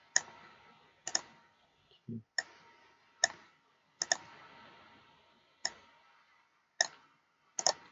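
Computer mouse clicks at irregular intervals, about ten in all, a few of them quick double-clicks.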